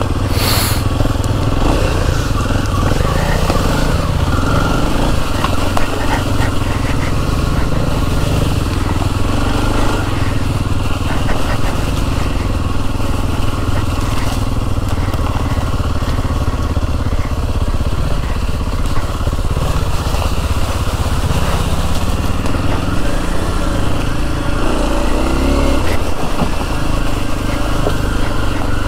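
Kawasaki KLX230 dual-sport motorcycle's single-cylinder four-stroke engine running as it is ridden along a trail, its pitch rising and falling with the throttle. A brief sharp noise comes about half a second in.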